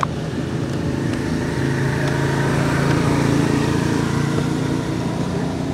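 A vehicle engine running steadily, growing a little louder toward the middle and then easing off.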